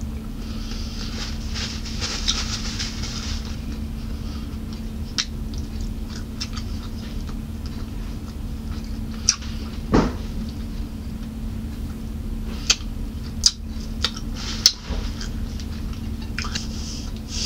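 Close-up wet chewing and lip smacks of a person eating a baked chicken wing off the bone, with scattered sharp mouth clicks, over a steady low hum.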